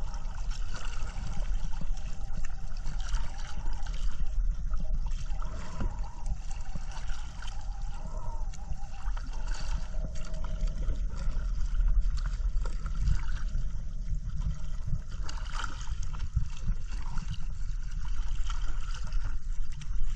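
Sea water sloshing and gurgling around a kayak being paddled, over a steady, uneven low rumble.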